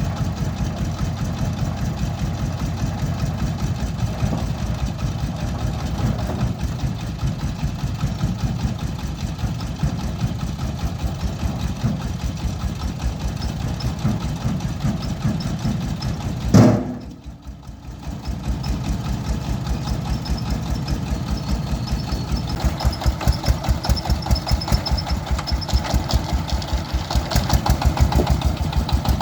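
Single-cylinder diesel engine of a công nông farm truck running with an even, rapid pulse. About halfway through there is a sharp click and a brief drop, then the engine picks up again and runs louder toward the end.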